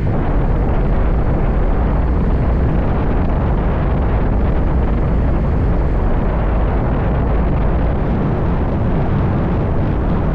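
Steady wind rumble on the microphone of a moving motorbike, with the bike's engine and road noise beneath it. The sound stays even throughout, heaviest in the low end.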